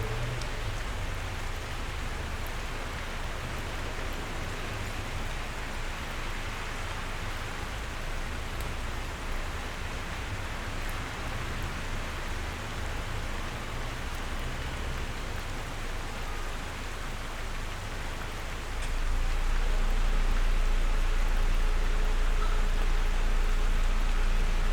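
Steady rain falling, an even hiss with a few sharp drop ticks. About three-quarters of the way in, a steady low rumble joins and the whole gets louder.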